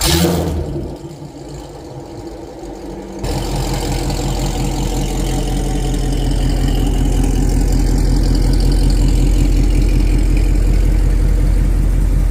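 Chevrolet C7 Corvette's V8 engine running. About three seconds in, the sound steps up suddenly to a louder, steady drone that holds.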